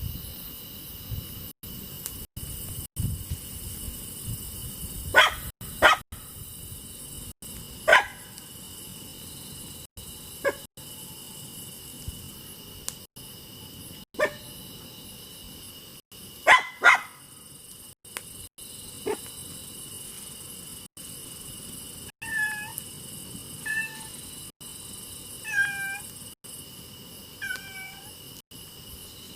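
A steady chorus of crickets, broken by several short, sharp sounds. Near the end a cat meows four times in short calls.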